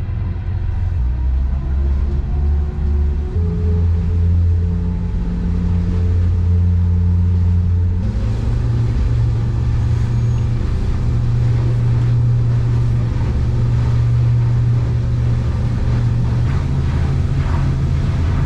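Boat engine running under throttle, a steady low drone whose pitch steps up about a second in, again around three and a half seconds, and once more about eight seconds in as the engine is brought up to speed.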